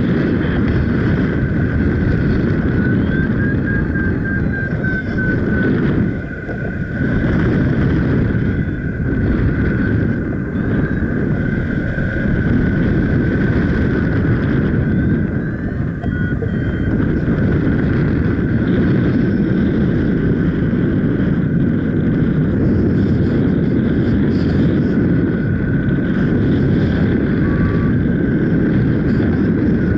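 Strong wind buffeting the microphone of a paraglider pilot in flight, a loud, steady rushing with a brief lull about six seconds in. A thin, steady high tone runs beneath it, broken into quick beeps for a couple of seconds near the start.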